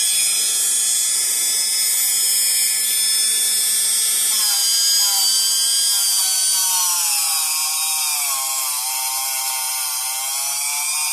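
Small high-speed rotary tool running steadily while cleaning corrosion off bolts, its whine wavering and dropping in pitch about halfway through as it is pressed into the work.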